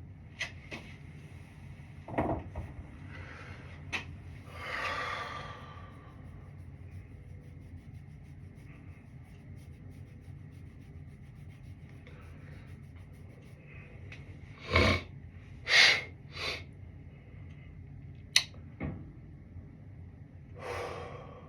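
Scattered handling noises: sharp clicks and knocks, a short rustle about five seconds in, and a cluster of louder thumps and scrapes around fifteen seconds in, over a faint steady hum.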